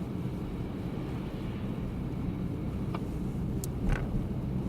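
Steady low rumble of road and engine noise inside a car's cabin, with a few short clicks and a thump near the end.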